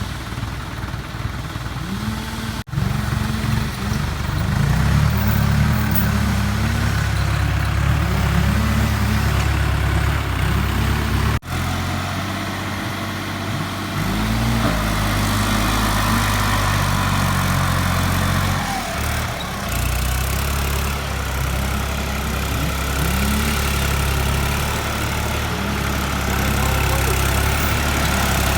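Tractor engines running and labouring, with the pitch rising and falling again and again. The sound breaks off abruptly twice, where one clip is cut to the next.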